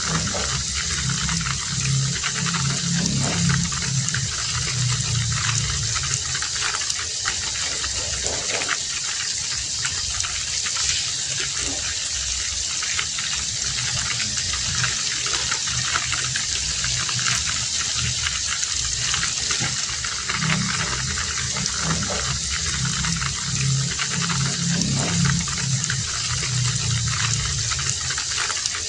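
Heavy rain falling steadily, a dense even hiss, with a low sound underneath that swells in the first few seconds and again about two-thirds of the way through.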